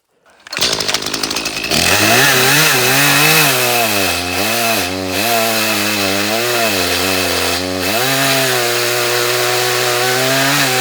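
Ported Echo CS-310 two-stroke chainsaw cutting wood, its engine pitch wavering up and down as it works in the cut and settling steadier near the end. The saw comes in about half a second in, after a moment of silence.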